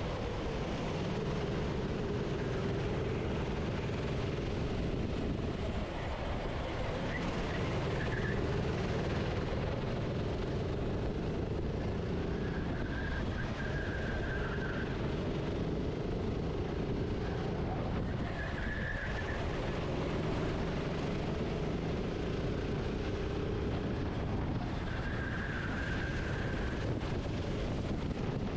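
Racing kart engine heard onboard under a steady rush of noise, its revs dropping and building again every few seconds as the kart lapping the circuit brakes for corners and accelerates out.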